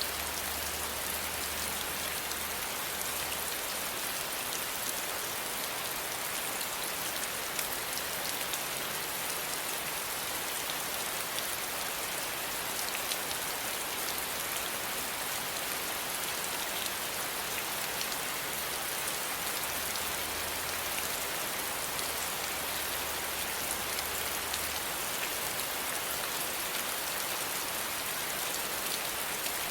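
Steady rain falling: an even hiss with a fine patter of individual drops throughout.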